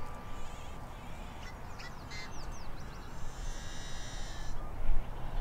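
Outdoor ambience: a small bird's quick run of chirps about two seconds in, then about a second of high insect-like buzzing, over a steady low rumble.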